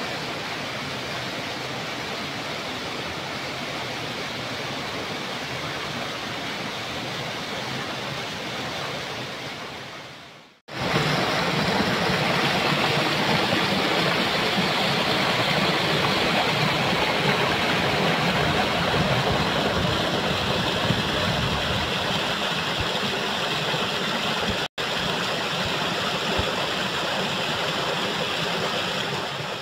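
Steady rushing roar of a waterfall, the water falling continuously. About a third of the way in it fades out briefly, then comes back abruptly louder and fuller. It drops out again for an instant near the end.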